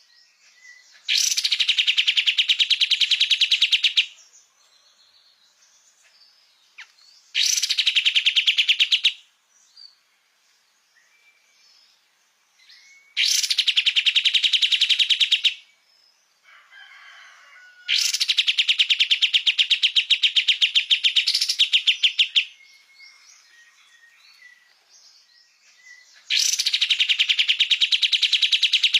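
Kapas tembak songbird singing vigorously ('gacor'). It gives five loud, rapid rattling trills of about eight notes a second, each lasting two to four seconds, with short pauses between them in which faint thin calls are heard.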